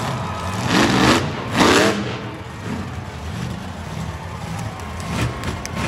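Monster truck engine running, revved twice in quick succession in the first two seconds, then settling back to a steady lower run.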